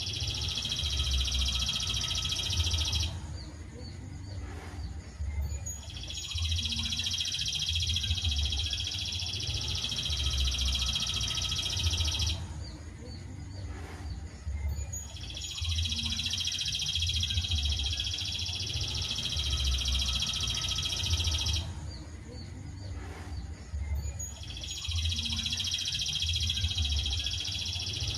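Looped songbird training recording (masteran): a dense, rapid, high-pitched bird chatter that runs for about six seconds, breaks off for about three, and starts again in the same pattern, with a low uneven rumble underneath.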